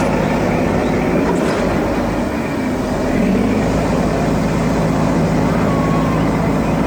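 Heavy construction vehicle engine running steadily with a continuous low rumble.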